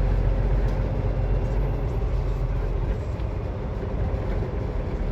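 Semi-truck diesel engine running at low speed during slow maneuvering, heard from inside the cab as a steady low rumble that eases slightly about three seconds in.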